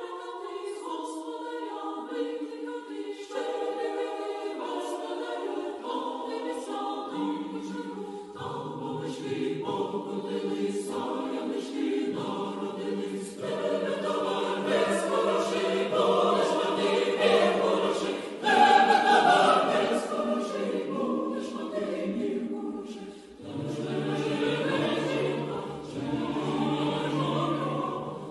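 Choral music: a choir singing sustained chords that build in fullness, swelling to a peak a little past the middle, dipping briefly, then returning with a deeper bass line.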